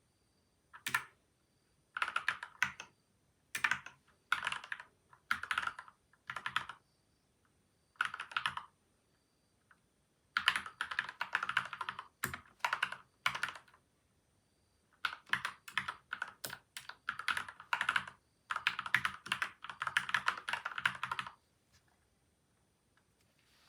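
Typing on a modded mechanical keyboard with lubed Gateron milky white and Outemu yellow switches, taped and foam-dampened: rapid keystroke clicks in short spurts with brief pauses, the longest runs about halfway through and near the end, then stopping about two seconds before the end.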